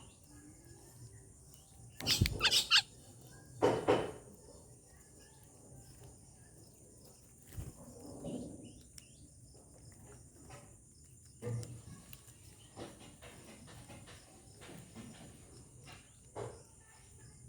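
Birds calling in short bursts, loudest about two and four seconds in, with softer calls and clicks later, over a steady high hiss of insects.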